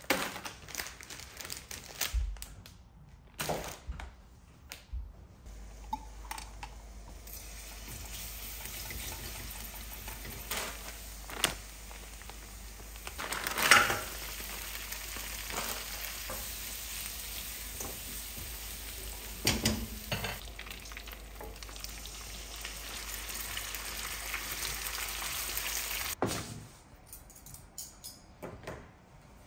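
Food sizzling in a frying pan, a steady hiss that stops abruptly near the end, with a few sharp knocks of utensils against the pan.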